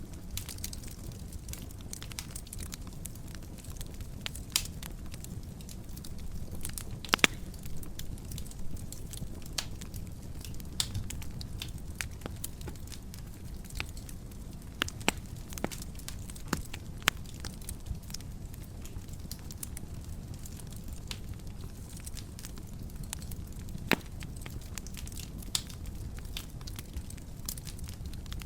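Fire burning in a fireplace, crackling steadily over a low rumble, with scattered sharp pops, a few louder ones standing out.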